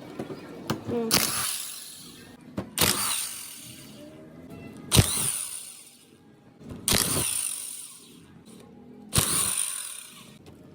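A tool worked in short bursts about every two seconds, each starting sharply and fading over about a second, with background music.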